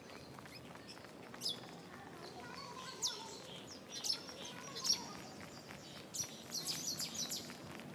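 Birds chirping: short high calls scattered through, some sliding down in pitch, with a quicker run of chirps near the end.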